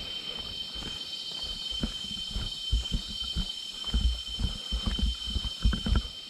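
Rainforest insects droning, a steady high-pitched whine with a hiss above it, over a run of irregular dull low thumps that grow stronger in the second half.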